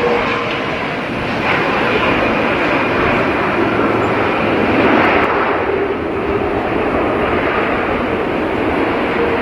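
Jet airliner engines running: a loud, steady rushing noise.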